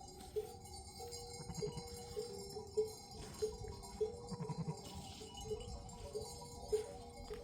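A metal livestock bell clanking irregularly, about twice a second, each strike ringing briefly, as the animal wearing it moves. A faint bleat from the flock is heard twice.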